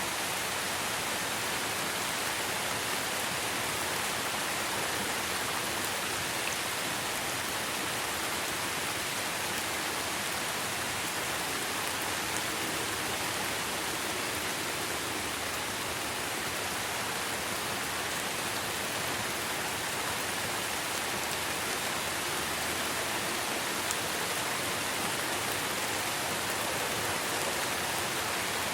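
Steady rainfall: an even, unbroken hiss of rain with no distinct drops or changes.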